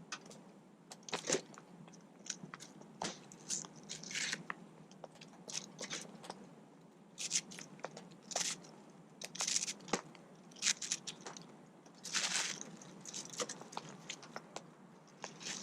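Knife cutting raw onion: irregular crisp crunches and clicks of the blade slicing through.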